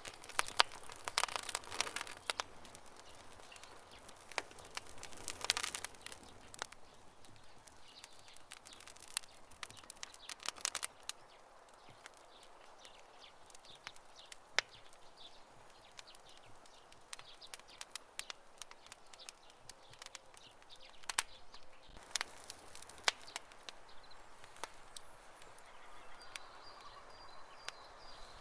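Wood campfire crackling, with irregular sharp pops and snaps that come in denser flurries now and then.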